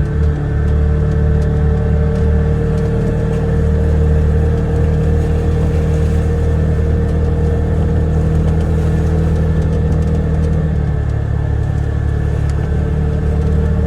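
Polaris Ranger 1000 XP side-by-side's twin-cylinder engine running steadily as it drives, an even drone with no changes in pace.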